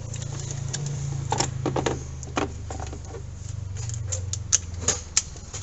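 Short runs of metallic clicks and taps from a socket wrench tightening the 8 mm screw of a hose clamp, over a steady low hum.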